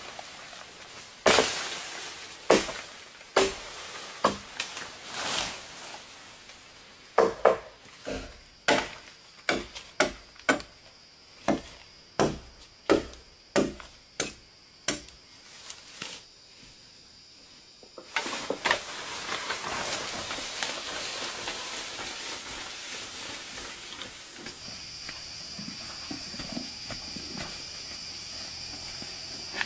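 Wood being chopped with a blade: a run of sharp strikes, a few spaced out at first, then about two a second, stopping about sixteen seconds in. A steady hiss follows.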